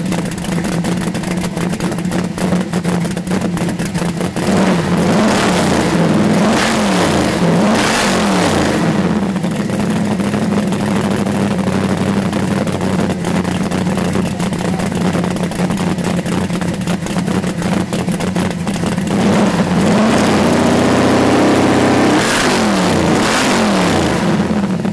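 Boss Mustang's V8 engine idling, revved in several quick rises and falls a few seconds in and again near the end.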